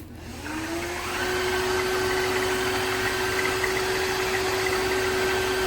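Tineco iFLOOR 5 Breeze cordless wet-dry floor washer switched on: its motor spins up with a rising whine over about the first second, then runs steadily with a constant hum and a higher whine.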